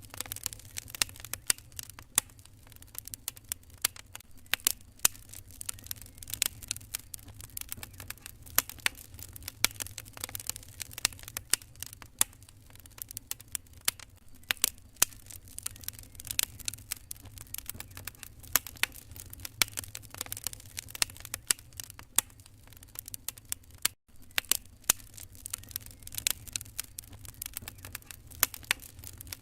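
Wood fire crackling in a fireplace: dense, irregular sharp pops and snaps over a low steady rumble.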